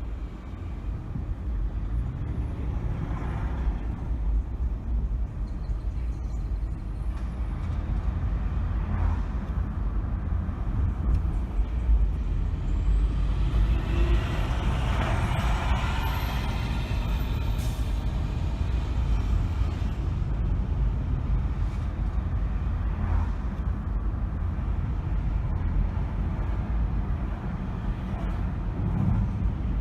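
A car driving through city traffic, with a steady low road and engine rumble. A louder rushing hiss swells and fades about halfway through, and a few fainter swells come and go.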